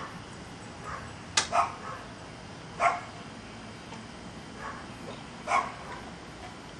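A dog barking four short times, two in quick succession about a second and a half in, then one near three seconds and one more past five seconds.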